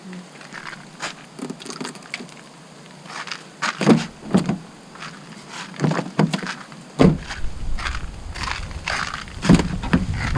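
Footsteps crunching on ice-glazed ground, irregular crunches that grow louder about four seconds in. A low rumble joins about seven seconds in.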